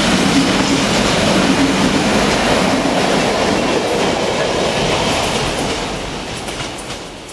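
Freight train of container flat wagons rolling past on the rails, wheels clattering. About five seconds in, the sound begins fading away as the end of the train recedes down the line.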